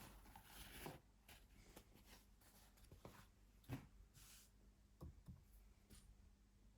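Near silence: faint, scattered small clicks and rustles of handling, the sharpest about three and a half seconds in.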